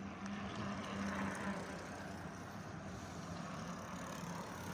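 An engine running steadily, a low even hum with a wash of noise that swells briefly about a second in.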